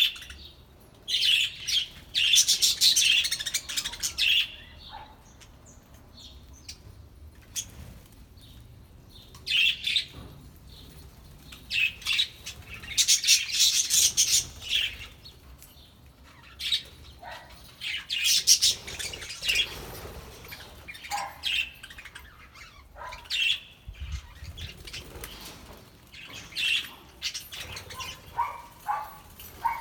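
A flock of budgerigars chirping and chattering in bursts a few seconds apart, with quieter gaps between, and a run of short, lower chirps near the end.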